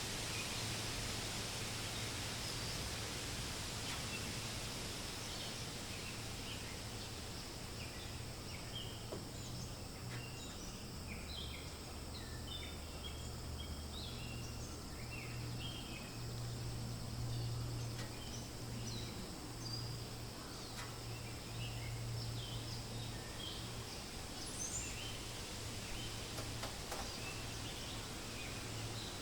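Forest ambience: a steady rustle of wind in the leaves, with many short bird chirps scattered throughout and a steady low hum underneath.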